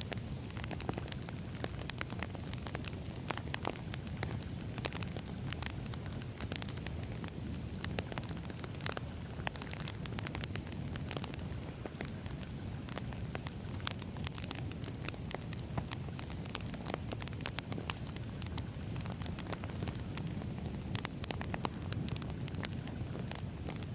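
Wood fire burning with a steady low rumble, and sharp crackles and pops of burning logs at irregular moments.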